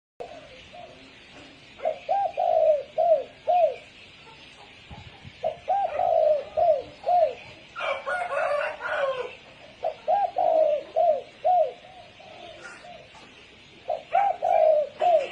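Spotted dove cooing: a phrase of four or five coos, repeated four times about four seconds apart, with a short rougher burst of sound a little after halfway.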